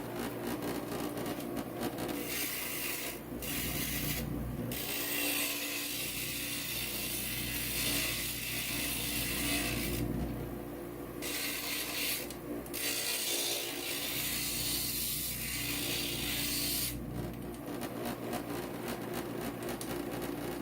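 Inland stained glass grinder running with a steady motor hum while a glass edge is pressed against the spinning grinding bit, a gritty rasping hiss that comes in long stretches with short breaks as the piece is lifted off and repositioned.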